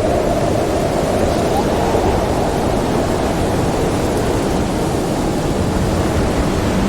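Howling winter storm wind blowing steadily, with a faint whistling tone that wavers up and down in the first couple of seconds.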